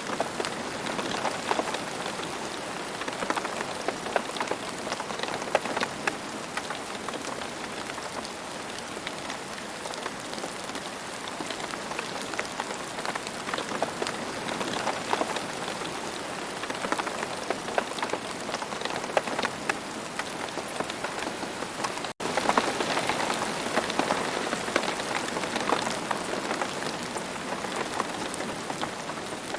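Steady rain falling, an even hiss dotted with many separate drop hits heard as fine ticks. About two-thirds of the way through, the sound cuts out for an instant and comes back slightly louder.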